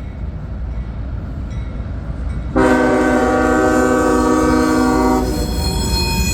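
Loaded freight train rolling past with a steady rumble. About two and a half seconds in, a diesel locomotive's multi-chime air horn comes in suddenly and loudly, holds one steady chord for about two and a half seconds and stops. High-pitched wheel squeal follows.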